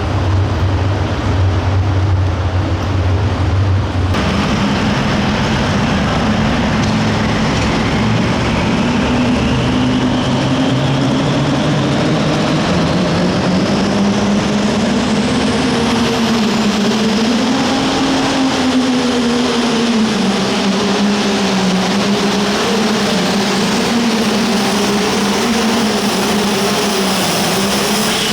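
Turbocharged diesel engine of a light limited super stock pulling tractor running hard under load, its pitch wavering up and down, with a high whistle rising slowly over about ten seconds. A steadier low drone in the first four seconds cuts off abruptly.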